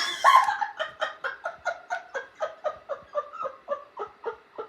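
A person laughing in a long, rhythmic run of short 'ha' bursts, about four a second, fading towards the end.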